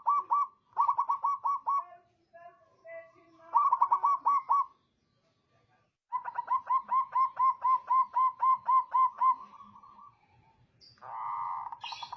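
Zebra dove (perkutut) calling in bouts of quick, evenly spaced short coos, about four a second. The longest run comes in the second half, followed near the end by a brief harsher steady sound.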